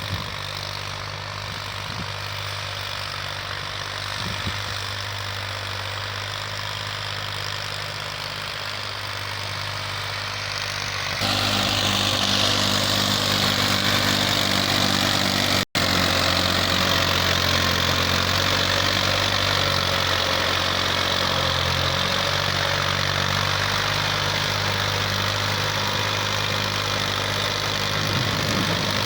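Massey Ferguson 240's three-cylinder Perkins diesel engine running steadily at idle. About eleven seconds in it gets louder and brighter, and it drops out for an instant just past halfway.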